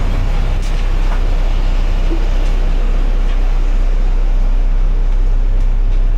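Steady loud low rumble with a hiss above it around a parked Boeing 737-800 at the aircraft door, with no breaks or separate events.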